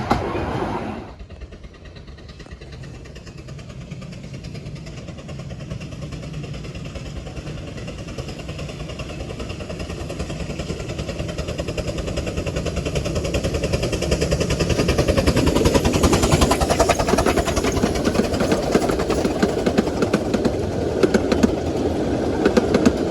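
A miniature-railway train on the 15-inch-gauge Romney, Hythe & Dymchurch line approaching, its running noise carrying a rapid beat and growing steadily louder until it is close and loud. A different loud train sound cuts off suddenly about a second in.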